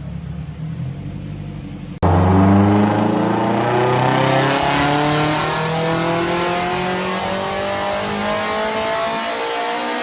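Turbocharged Nissan SR20DET engine in an S13 Silvia, running low for about two seconds, then after an abrupt cut running loud and hard at high, nearly steady revs.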